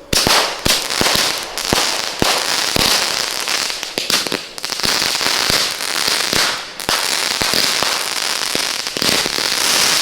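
Fireworks going off: a dense run of sharp bangs over continuous crackling.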